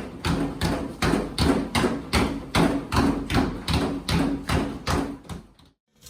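Basketball dribbled on a garage floor: a steady run of bouncing thumps about twice a second, stopping abruptly near the end.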